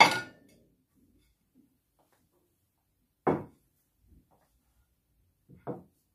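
Household objects being handled: a sharp clink with a brief ring right at the start, a duller knock about three seconds in, and a quick double knock near the end.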